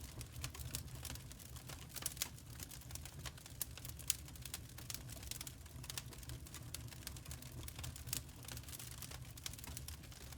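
Wood fire crackling: irregular snaps and pops over a low steady rumble.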